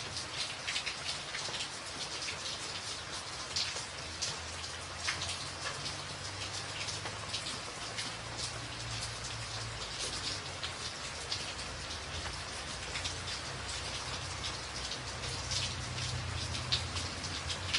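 Rain falling on a tin roof: a steady patter with many sharp individual drop hits. A low rumble swells and fades underneath.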